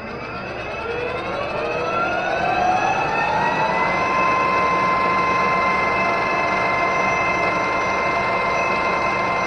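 Metal lathe spinning up to speed after being switched on: its motor and gear train give a rising whine that levels off about four seconds in into a steady high-pitched running whine.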